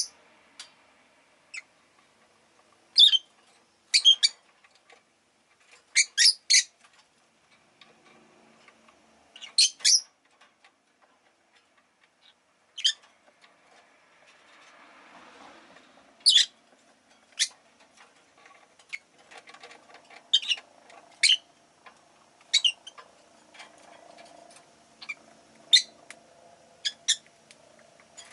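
Rosy-faced lovebirds giving short, shrill chirps, one at a time or in quick runs of two or three, every second or two.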